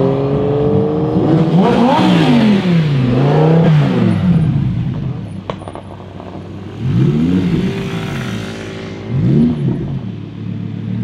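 A sports car's engine note rises as it pulls away in the first second, then a Lamborghini Huracán Performante's naturally aspirated V10 is blipped in short, sharp revs over a steady idle: two around two and three and a half seconds in, and two more near seven and nine and a half seconds.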